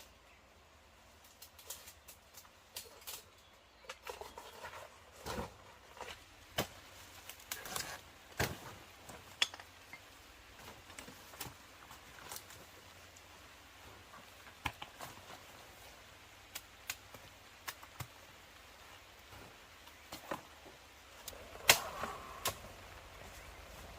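Irregular light knocks and clicks, spaced unevenly with short rustling in between, and a few sharper knocks near the end.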